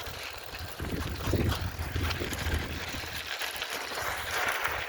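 Wind buffeting the microphone during a bicycle ride, a low uneven rumble under a steady hiss, with many small clicks and rattles from the bike.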